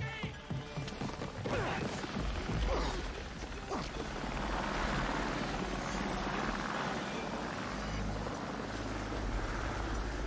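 Tiger attack helicopter running, its turbine and rotor noise settling into a steady whine over a low rumble after about four seconds. A few short sliding tones come through in the first seconds.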